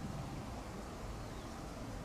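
Faint, steady low rumble of a distant SAS Airbus A320neo's jet engines.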